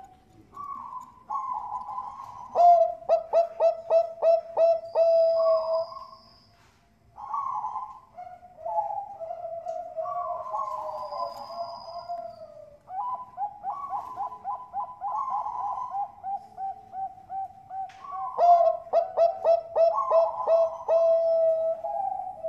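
Zebra dove (perkutut, Thai 'bangkok' song strain) cooing: long rolling coos broken by two runs of quick staccato notes, one a few seconds in and another near the end.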